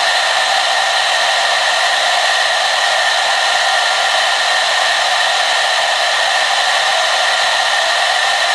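Hair dryer running steadily, a constant airy rush with a steady high whine in it and no change in speed.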